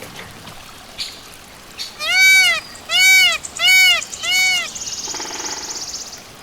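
A farm animal calling four times in quick succession, each clear call rising and then falling in pitch, followed by a buzzy, rapidly pulsing high-pitched rasp near the end.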